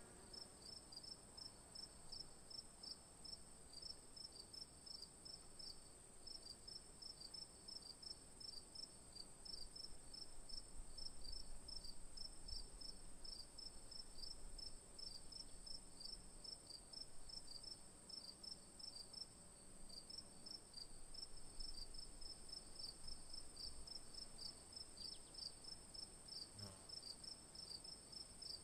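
Insects chirping, faint: a fast, continuous run of high chirps over a steady high-pitched drone.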